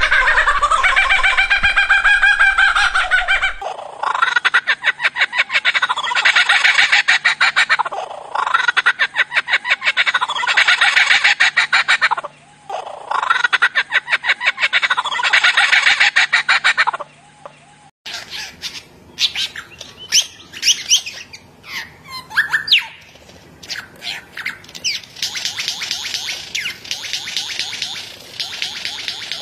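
A bird mimicking the laugh of a kuntilanak: repeated bouts of rapid, pulsed laughing notes, each about two seconds long with short pauses. After a cut come a few sharp whistles and then another run of rapid, higher notes.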